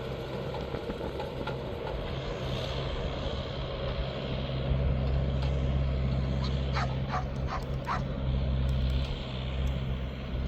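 New Holland TL100 tractor's diesel engine running steadily under load as it pulls a plough through hard ground, growing louder about halfway in. A little after the middle come four or five short, high yelps, like a dog's.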